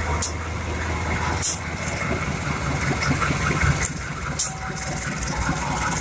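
Passenger train coaches rolling slowly past over a steady low diesel engine hum, with four short, sharp hisses.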